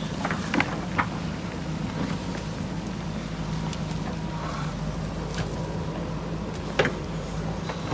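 JCB 3DX backhoe loader's diesel engine running steadily, with a few sharp knocks, a couple about a second in and a louder one near the end.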